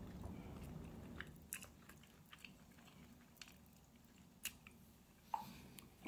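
Faint chewing with scattered small clicks, someone eating soft braised chuck roast.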